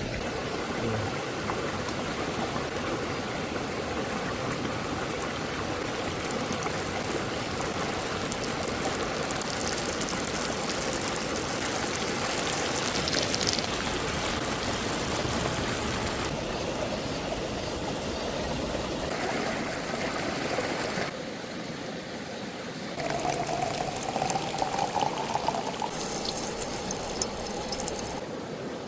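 Running water: a steady rushing hiss that changes abruptly several times.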